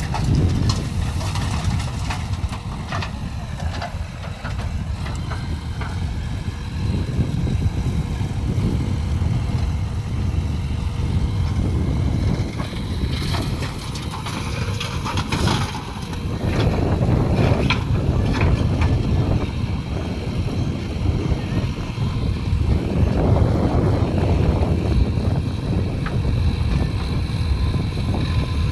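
Diesel engines of a backhoe loader and tractors running under work, a steady low rumble that swells and eases, with a few sharp knocks around the middle.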